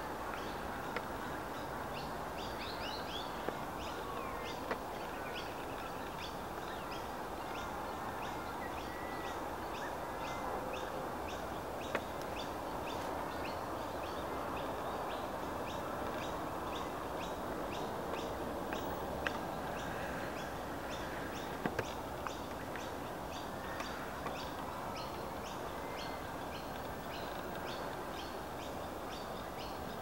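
Wetland birds calling: a long run of short, high chirps repeating about twice a second, with scattered other calls, over a steady background rush and a few faint clicks.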